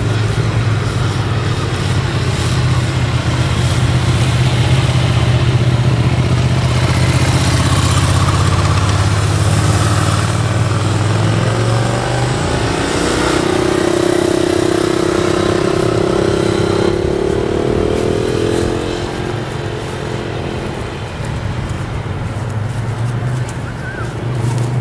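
Motorcycle engines running at low speed, a steady low drone. About halfway through, a higher engine note rises and holds for several seconds, then fades.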